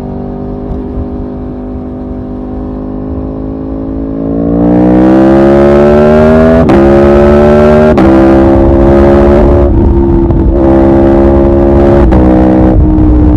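Aprilia Tuono V4 R's V4 engine, heard from on board: a steady note for about four seconds, then the rider opens the throttle and the pitch rises hard, with quick upshifts about 6.5 and 8 seconds in, after which the engine holds a steady high note with wind rush over the microphone.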